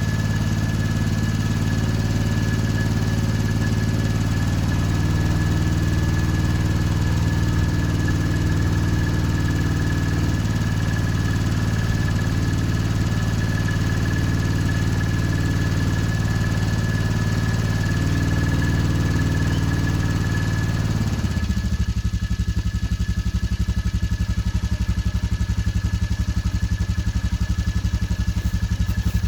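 Engine idling steadily after a cold start. About three-quarters of the way through, the sound drops suddenly to a lower, evenly pulsing idle. A thin, steady high whine continues throughout.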